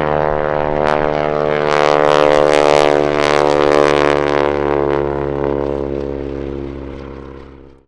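Boeing Super Stearman biplane's 450-horsepower radial engine and propeller droning steadily in a fly-past, loudest a few seconds in, then fading away and cutting off abruptly at the end.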